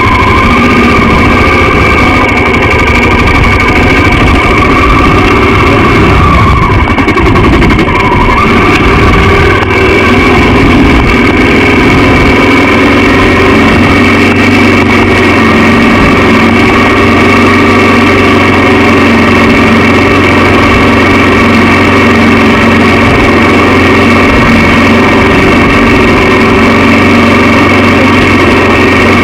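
Honda XR650L's air-cooled single-cylinder four-stroke engine running steadily and loudly.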